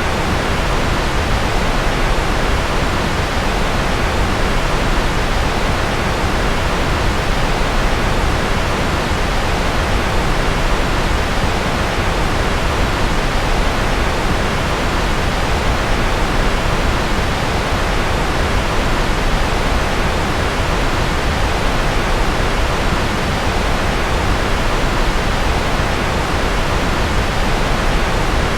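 Steady, unchanging rushing noise, full down into the bass: continuous sleep-aid white noise of the rocket or jet-engine kind.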